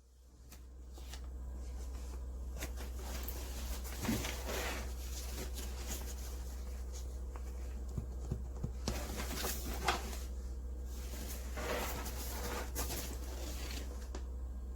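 Soft rustling and scattered light clicks and knocks of handling, over a steady low hum.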